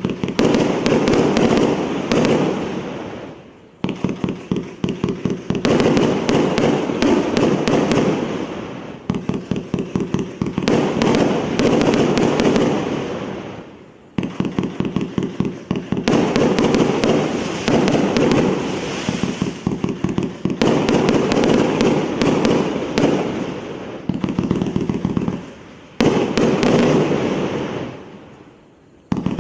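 348-shot multi-shot firework cake firing in rapid volleys: each run is a quick series of launch thumps, followed by bursting and crackling that fades away. A new volley starts every two to five seconds.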